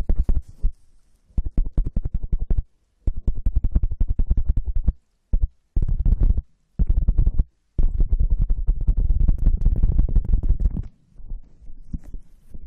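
Rapid scratching and rubbing right on an ASMR microphone, in bursts of one to three seconds with short pauses, softer near the end.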